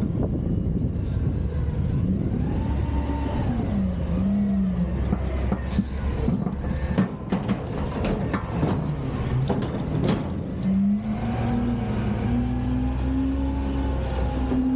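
Autocar/Heil Freedom front-loader garbage truck working, its engine revving up and down to drive the hydraulic lift arms. A run of sharp clanks and bangs comes in the middle, typical of a steel container being lifted and shaken out over the hopper, and the engine rises again and holds high near the end.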